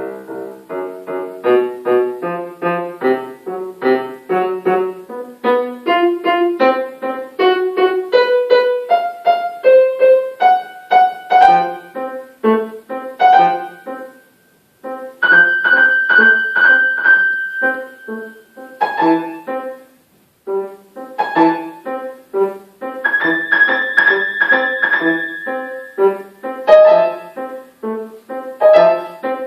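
Solo piano playing: runs of separate notes that climb step by step, then held notes ringing over repeated chords, broken by two short pauses.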